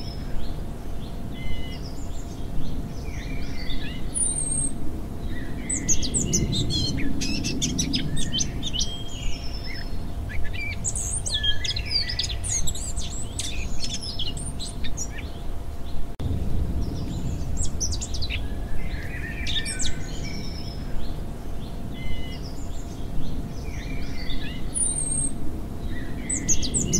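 Many birds chirping and calling in short, overlapping bursts, over a low outdoor rumble and a faint steady hum.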